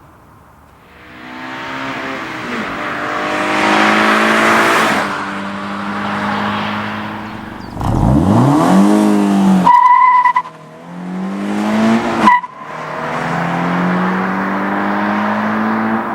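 Toyota GT86's 2.0-litre flat-four engine accelerating hard through the gears of its six-speed manual gearbox. The revs climb in steps, falling back briefly at each gear change. Two short high beeps sound around the middle.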